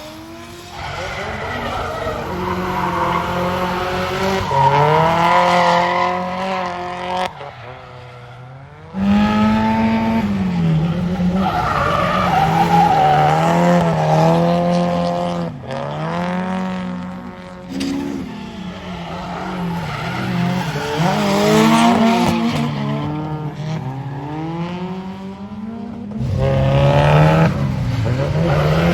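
Drift cars sliding: engines revving hard, their pitch rising and falling over and over as the throttle is worked through the slide, over tyre squeal. The sound drops away for a moment about seven seconds in, then comes back just as loud.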